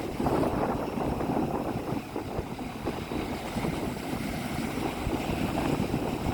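Strong wind buffeting the microphone, with rough surf washing and splashing on the beach.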